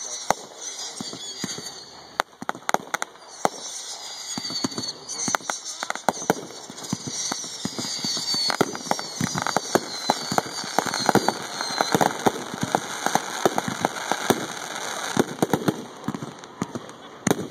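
Aerial firework shells fired from mortars and bursting overhead: a dense, irregular run of sharp bangs and crackling that grows denser and louder about six seconds in. Thin high whistles falling in pitch run through roughly the first ten seconds.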